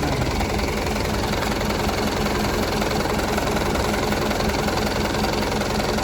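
Tractor diesel engine running steadily with a constant low hum, without revving.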